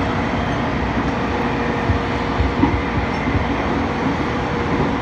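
E231 series electric commuter train running at a steady speed, heard from inside a passenger car: a continuous rumble of wheels on rail with a faint steady whine and a few soft knocks.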